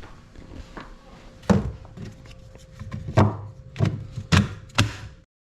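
A series of dull knocks and thumps on a hard surface: one about a second and a half in, then four more in quick succession in the second half. The sound cuts off abruptly near the end.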